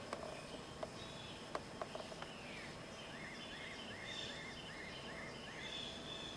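A bird calling outdoors: a quick run of about seven short rising-and-falling chirps through the middle, with other brief high notes around it, over a faint steady background. A few light clicks come in the first two seconds.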